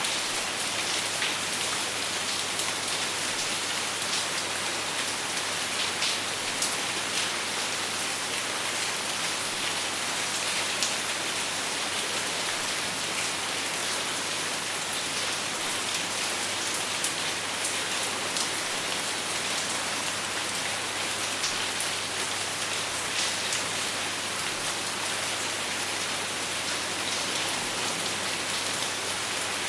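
Steady rain falling on a surface, an even hiss dotted with the ticks of individual drops, with no thunder.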